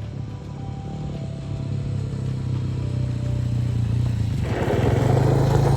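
Dirt bike engine running and growing steadily louder, with a loud rush of noise joining in about four and a half seconds in.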